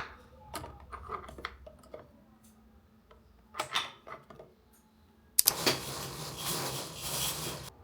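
Kitchen handling sounds: scattered light clicks and taps of objects being set down and moved, then, about two thirds of the way in, a louder steady rush of noise lasting about two seconds that cuts off suddenly.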